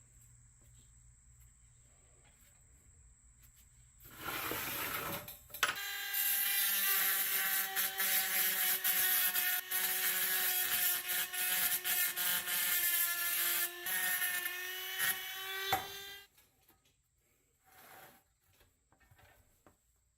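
A handheld power tool starts about four seconds in and runs for about ten seconds with a steady whine and a rough, hissing grind, then stops.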